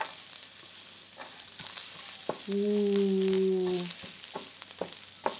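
Chopped garlic and sliced ginger sizzling in hot oil in a wok, with a steady hiss. They are stirred with a wooden spatula, which gives scattered ticks and scrapes against the pan.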